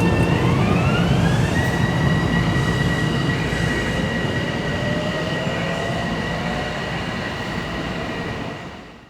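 Passenger train running past on the rails: a loud rumble of wheels with a whine that rises over the first second and a half and then holds steady, cut off suddenly at the end.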